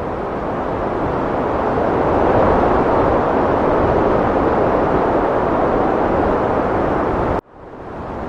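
Heavy wind blowing as a dense, steady rush that swells louder about two seconds in. Near the end it cuts out abruptly and fades back in, the join where the recording is looped.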